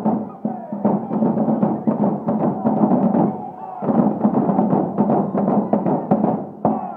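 Drums of a marching band beating a steady rhythm, with a short break about three and a half seconds in.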